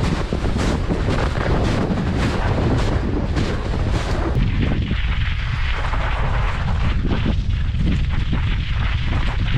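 Heavy wind buffeting on the microphone while cycling into a strong headwind: a loud, continuous low rumble with irregular gusty thumps.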